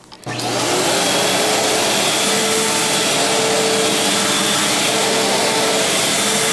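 Fantom Crosswind 200XL bagless upright vacuum cleaner switched on, its motor spinning up within the first half second and then running steadily at full speed with a steady whine over the rush of air.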